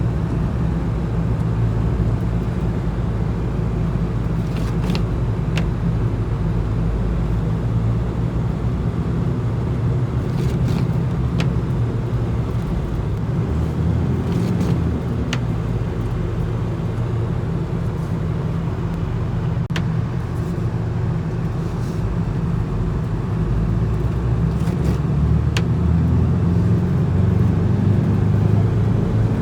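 1985 Toyota Blizzard 4x4's diesel engine running steadily under way, a low drone with a few faint clicks scattered through it.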